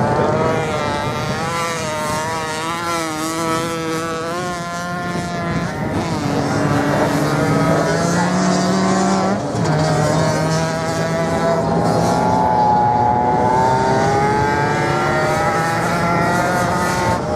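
Several racing motorcycle engines running hard at high revs on sand, their notes rising and falling as the riders change gear and pass. One engine note climbs and then drops sharply about nine seconds in.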